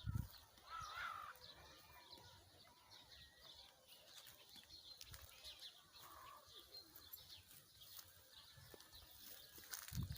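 Faint birds chirping and calling, many short high chirps with a few longer curving calls, over a quiet outdoor background. A low thud comes at the very start and another near the end.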